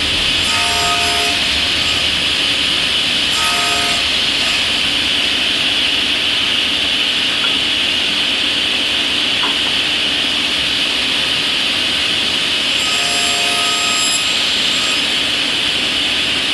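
A power tool running steadily through wood, a continuous even whir with no back-and-forth strokes, with a brief squeal three times: about half a second in, at about three and a half seconds, and at about thirteen seconds.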